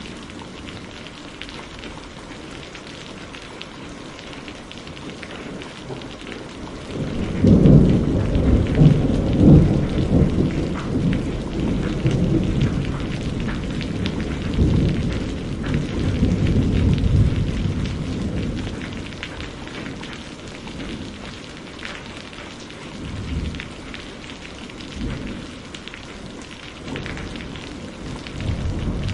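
Steady rain falling, with a long roll of thunder that builds about a quarter of the way in, rumbles for around ten seconds and fades away. Fainter rumbles return near the end.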